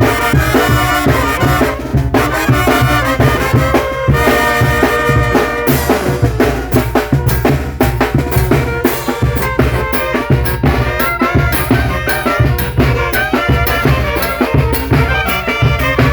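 Mexican brass band (banda de viento) playing: horns carry the tune over a steady drum beat.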